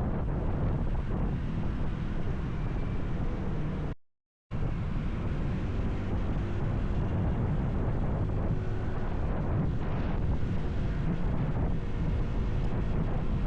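Wind buffeting the microphone of a moving motorcycle, with the bike's engine running faintly underneath. The sound cuts out completely for about half a second about four seconds in.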